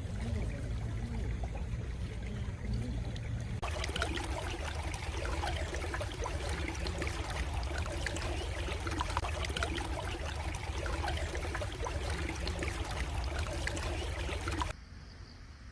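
A stream running over stones, trickling and babbling steadily. About four seconds in it switches abruptly to a brighter, busier flow, and near the end it drops suddenly to a quieter flow.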